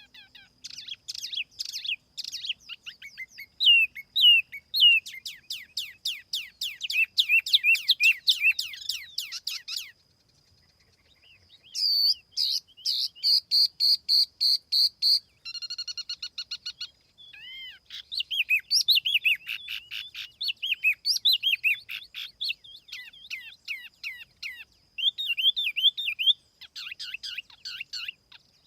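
Tiểu mi songbird singing: dense runs of quick, high chirps and trills, broken by a short pause before the middle, then a run of evenly repeated notes and more varied warbling. It is a lure recording of the species' call.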